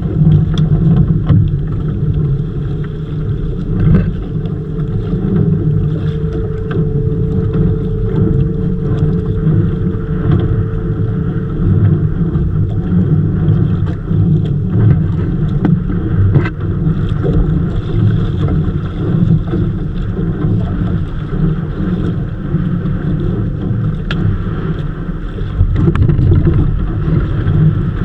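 Strong sea wind buffeting the microphone aboard a small fishing boat, a loud, uneven low rumble with small knocks here and there.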